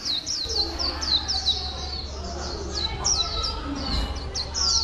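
A bird calling in a rapid, unbroken series of short, high chirps, each sliding down in pitch, about four or five a second, over a steady low hum.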